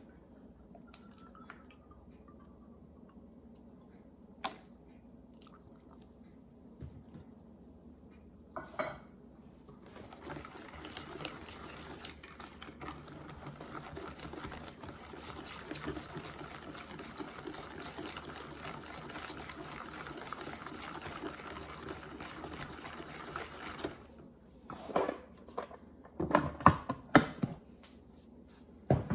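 Kitchen baking sounds: a few light clicks, then a long stretch of steady, liquid-like noise from about ten seconds in, which stops suddenly, followed by several loud clattering knocks of dishes and utensils near the end.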